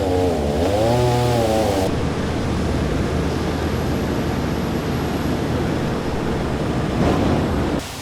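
Engine running, its pitch rising and falling, then giving way about two seconds in to a steady rough mechanical noise that cuts off abruptly near the end.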